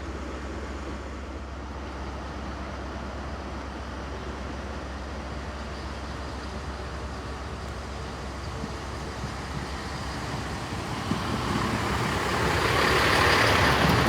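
A train approaching over a steady low hum, growing louder from about halfway through and loudest near the end.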